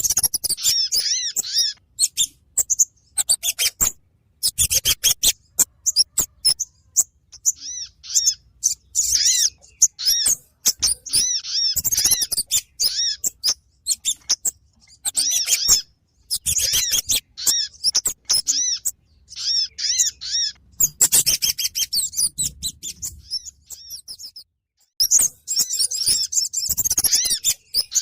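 Lure-call recording of kemade and sogon birds: loud, rapid chattering series of high, arched chirps, coming in busy bursts with brief pauses between them.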